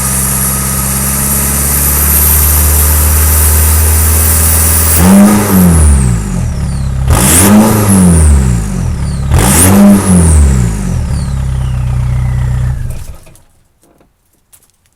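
Modified VW Jetta TDI's 1.9-litre four-cylinder turbodiesel, breathing through a 3-inch performance exhaust, idling and then revved three times in quick blips about two seconds apart, each climbing and falling back to idle. The engine is switched off near the end and the sound stops.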